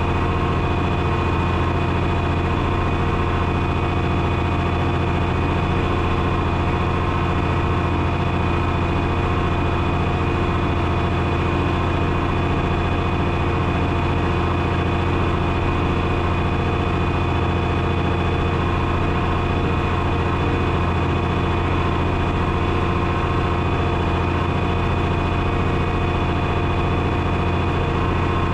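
1972 John Deere 6030's six-cylinder diesel engine running steadily at a constant speed.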